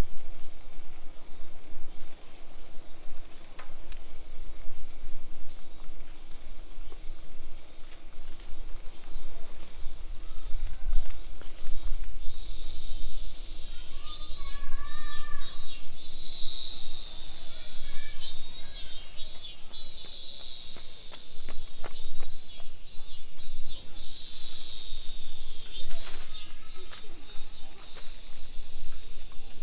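Insects droning in a park: a steady high-pitched buzz with a pulsing rhythm comes in about twelve seconds in, with a few short chirps and a low outdoor rumble underneath.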